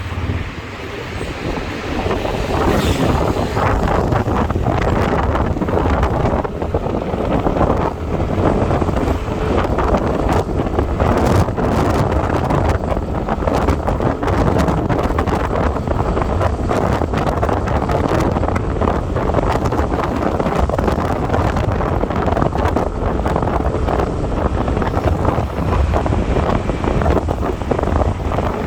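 Wind buffeting the microphone of a moving motorbike, over the bike's engine and road noise. It grows louder about two seconds in and then stays loud and steady.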